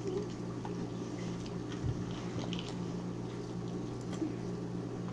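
Faint sounds of people eating at a table: scattered small clicks of cutlery and chewing over a steady low electrical hum.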